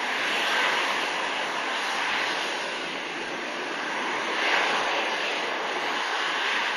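Airbus A320's twin CFM56 turbofan engines heard as a steady rushing jet noise, swelling slightly about half a second in and again past four seconds.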